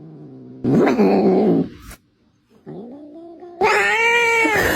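A cat yowling in three long drawn-out calls: a loud one about half a second in, a fainter one, then another loud one near the end.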